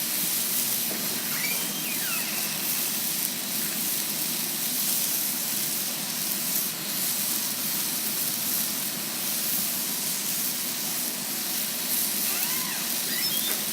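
Breaded shake-and-bake chicken pieces frying with a steady sizzle.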